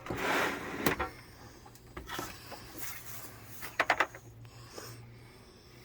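A table leg being worked in its socket on a sewing-table frame: a scrape about the first second, then scattered clicks and knocks, with three quick sharp clicks near four seconds in. The leg is sticking and will not seat level.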